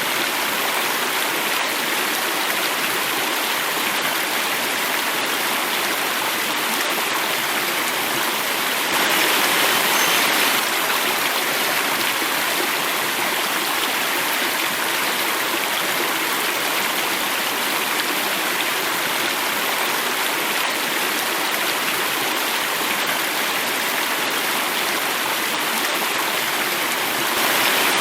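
Water running and falling in a small cascade: a steady, unbroken rush, briefly louder about a third of the way in and again near the end.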